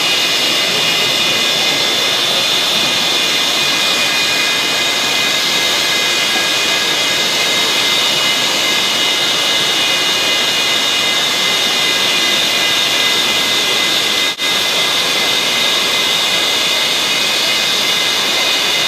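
Hot-air plastic welding gun's blower running steadily: an even rush of hot air with a high, steady whine.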